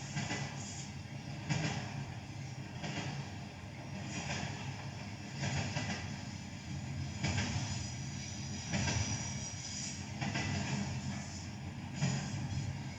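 BNSF train rolling on the track: a steady low rumble with a broad clatter that swells about every one and a half seconds.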